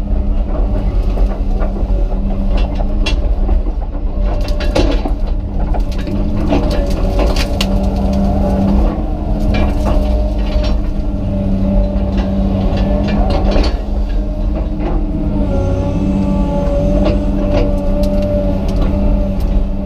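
Komatsu PC200 excavator's diesel engine running steadily under load, with scattered sharp cracks and clanks over it and a higher steady whine for a few seconds near the end.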